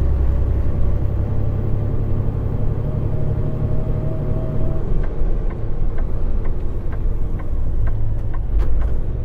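Semi-truck diesel engine running on the road, heard from inside the cab as a steady low rumble. A faint whine rises slightly and stops about five seconds in, after which a light clicking sets in, about twice a second.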